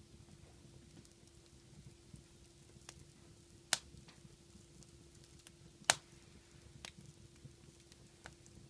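Wood fire in a fireplace crackling, with a few sharp pops, the two loudest a little over a third of the way in and about two-thirds through, over a faint steady hum.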